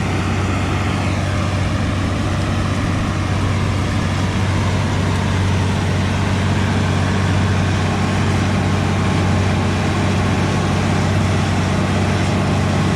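Tractor engine running steadily: a low, even hum with a broad hiss over it.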